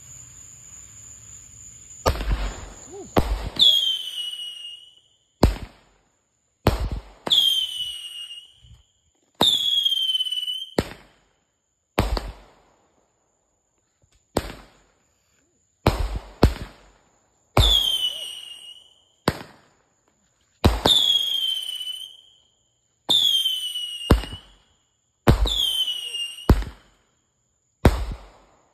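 A consumer firework fires a rapid string of about twenty loud shots, roughly one a second. Many of the bangs are followed by a short whistle that falls in pitch. The firing starts about two seconds in and ends near the end.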